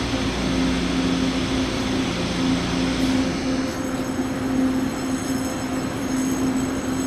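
Taiwan Railways Tze-Chiang express train standing at the platform, giving off a steady hum with a constant low drone. About three and a half seconds in, the deepest rumble drops away and faint high-pitched whines come in.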